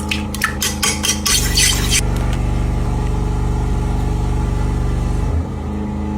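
A motor running with a steady hum that shifts about a second in and drops near the end, with a string of clicks and a short burst of rattling in the first two seconds.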